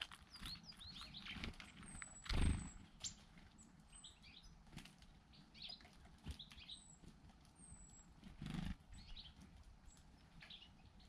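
Small garden songbirds calling with many short high chirps and thin falling whistles, with two brief louder whooshes of wingbeats, about two seconds in and again near eight and a half seconds.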